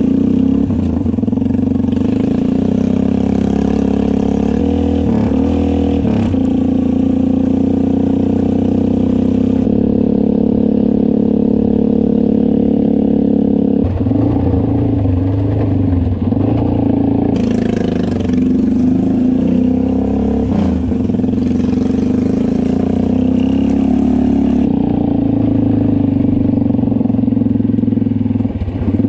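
Honda Rancher 420 ATV engine running, its pitch rising and falling as it is revved.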